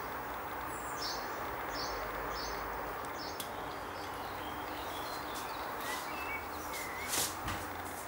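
Small garden birds chirping: a cluster of short high chirps in the first couple of seconds and a few softer whistled notes near the end, over a steady outdoor hiss, with a couple of sharp clicks.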